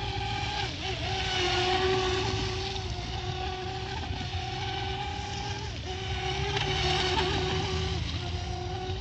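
RC model boat's 3200 kV brushless motor running with a steady high whine that dips briefly three times as the throttle eases, over a hiss that swells twice.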